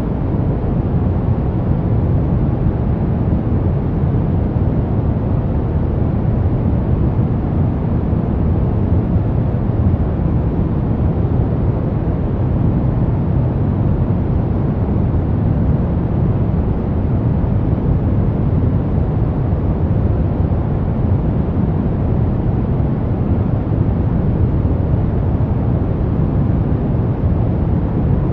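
Steady brown noise: a deep, even rumble with most of its strength low down and little treble, unchanging throughout.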